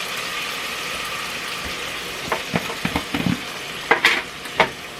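Ground beef sizzling as it fries in a Presto electric kettle, with a utensil clicking and scraping against the pot several times from about two seconds in as the meat is stirred.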